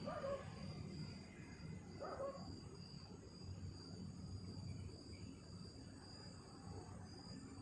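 Night insects trilling steadily and high, over a low rumble of wind on the microphone, with two short distant calls, one at the start and one about two seconds in.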